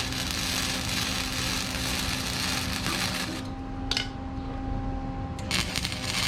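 Wire-feed welder arc crackling as it lays a bead on steel. It stops a little past halfway, flares twice briefly, then starts again shortly before the end, over a steady low hum.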